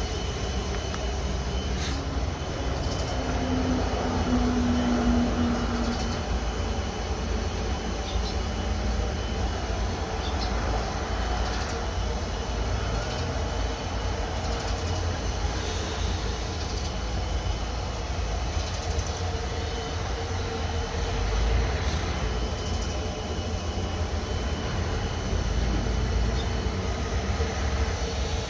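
A steady low rumble with a faint steady hum above it, and no sudden events.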